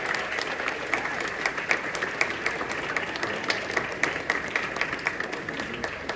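Audience applauding, many separate hand claps heard in the crowd, easing off slightly over the few seconds.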